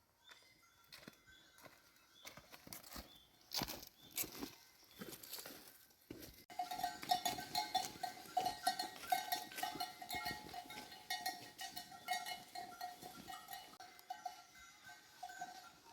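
Bells on a flock of sheep clinking and ringing continuously as the animals move, starting about six and a half seconds in; before that, scattered clicks and rustling.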